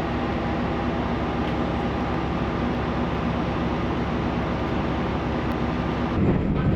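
Steady running noise of a local electric train heard from inside the carriage, with a constant low hum; the sound changes and grows slightly louder about six seconds in.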